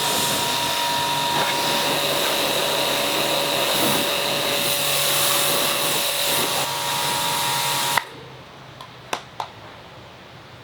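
A workshop tool running with a steady loud hiss and a faint steady whine. It cuts off suddenly about eight seconds in, followed by a few light clicks.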